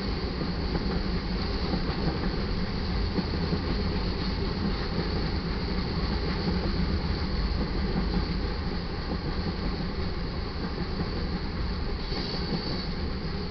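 Iron ore cars of a freight train rolling past, a steady rumble of steel wheels on rail. A thin high-pitched tone rides above it and grows a little stronger near the end.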